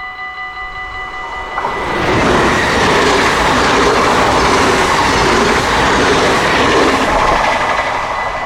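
Dutch level-crossing warning bell ringing in rapid pulses, then a train passing over the crossing at speed, its wheels on the rails making a loud rushing noise for about six seconds, with the bell heard again as the train clears.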